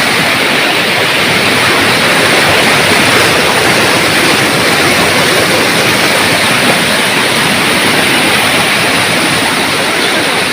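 Loud, steady rush of water with no breaks.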